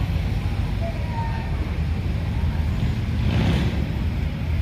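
Classic car engines running as cars drive slowly past in a rollout, a steady low rumble with a brief louder surge about three and a half seconds in.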